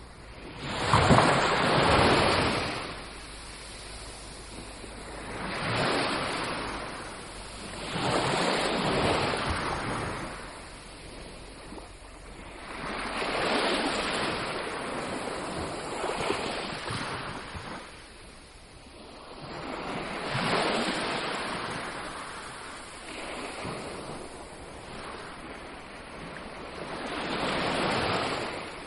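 Sea waves breaking on a beach, surging and ebbing every few seconds, the loudest about a second in.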